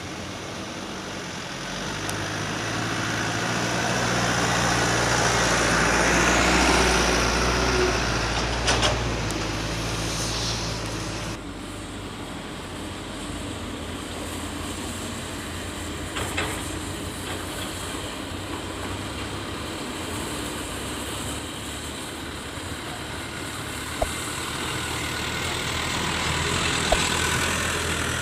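A Kobelco SK200-10 excavator's diesel engine working under hydraulic load. It climbs and gets louder over the first few seconds, holds, then drops off suddenly about eleven seconds in. A few sharp knocks, typical of the bucket or steel parts striking, come through over the steady engine.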